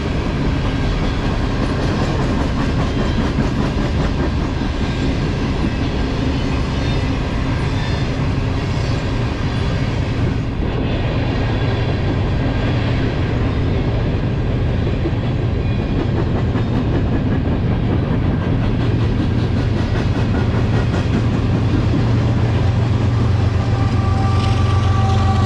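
Loaded covered hopper cars of a freight train rolling past, with steel wheels rumbling and clicking over the rails in a steady, loud wash of noise. Near the end a diesel locomotive comes past, and a deeper engine drone and a steady tone rise over the car noise.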